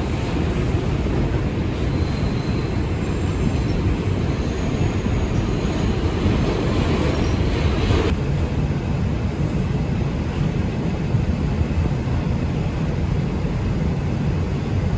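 R142 subway train running at speed through the tunnel, heard from inside the car: a steady rumble of steel wheels on rail.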